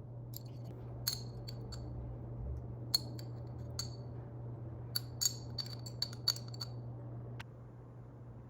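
Light clinks and taps of cutlery against dishes, each with a short ringing tone, in irregular clusters over a steady low hum that stops near the end.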